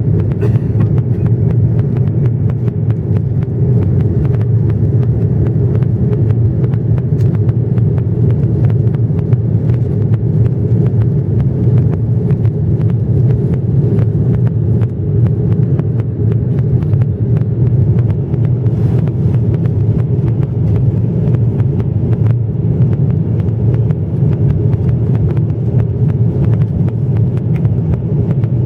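Steady low rumble of an Airbus A330-300's jet engines and rushing air heard from inside the passenger cabin in flight.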